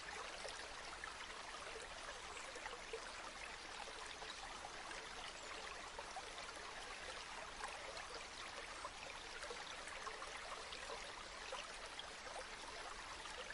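Flowing river water: an even, steady rush flecked with small splashes.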